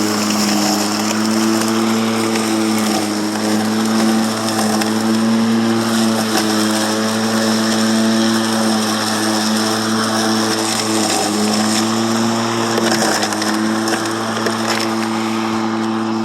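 EGO 56-volt cordless electric push mower running under load as it cuts very tall grass: a steady motor-and-blade hum over the rush of grass being cut. The pitch sags briefly twice, about two-thirds of the way through.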